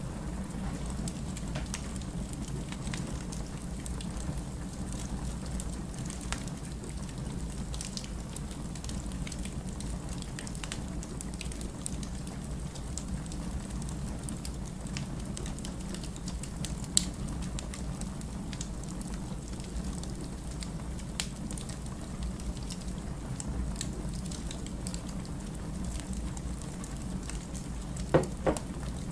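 Wood fire burning in a fireplace: a steady low rush with scattered small crackles, a sharper pop about halfway through and two more near the end.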